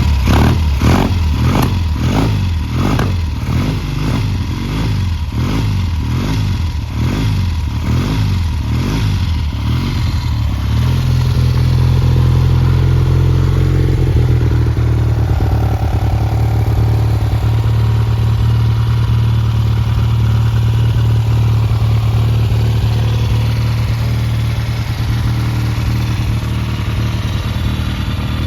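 1970 Triumph Trophy 650's parallel-twin engine running just after a cold kick-start on partial choke. For about the first ten seconds its speed rises and falls in a steady rhythm, then it settles into a steady idle.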